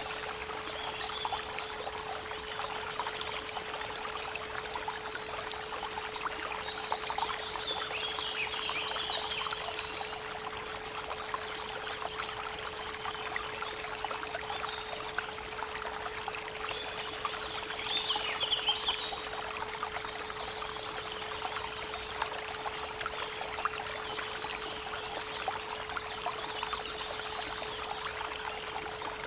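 A creek babbling steadily, with a pure 432 Hz tone held underneath without a break. Songbirds sing two bursts of chirps, about five seconds in and again around sixteen seconds.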